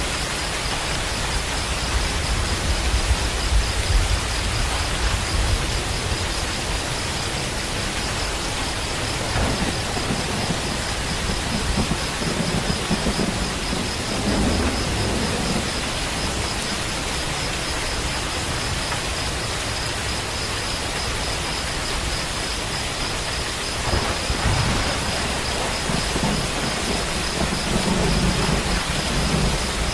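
Steady rain falling, with low rolls of thunder rumbling up several times.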